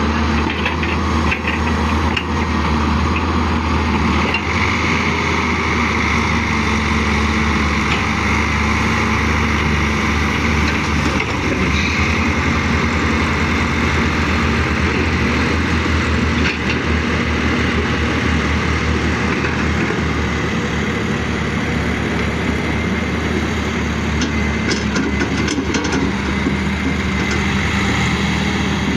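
Caterpillar excavator's diesel engine running steadily, a continuous low drone.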